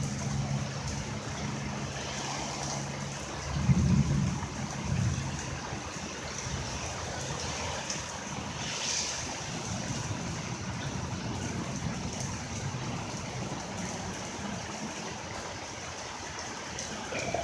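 Steady rain falling, with a brief low rumble about four seconds in.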